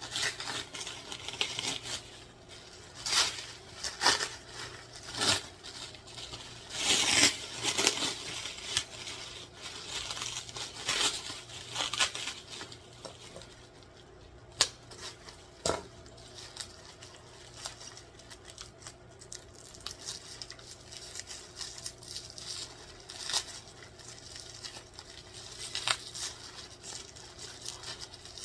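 Packaging being opened and handled by hand: cardboard and wrapping torn, crinkled and rustled, with irregular sharp taps and rustles, busiest in the first half.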